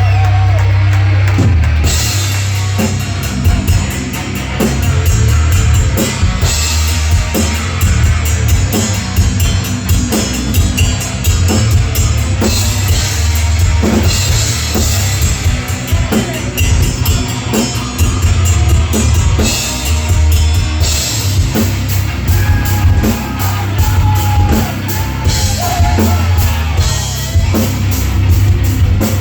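Live heavy metal band playing: distorted guitars, bass and a steady drum kit beat that comes in about two seconds in.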